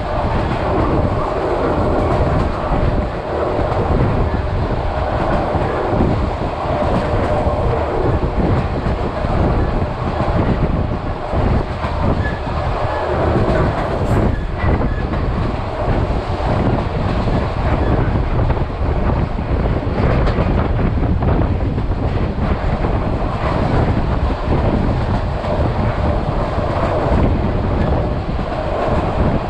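Vietnam Railways SPT1 passenger train running on the line: a steady loud rumble with frequent clacks of the wheels over the rails.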